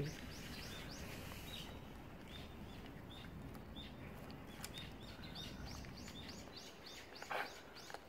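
Small birds chirping: short rising chirps repeated in quick runs at the start and again from about five seconds in, with sparser chirps between, over steady low outdoor noise.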